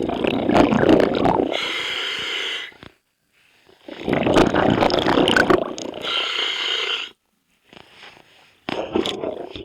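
A scuba diver breathing through a regulator underwater: a bubbling rumble of exhaled air, then the hiss of an inhalation through the regulator, then a pause, in two breath cycles about four seconds apart.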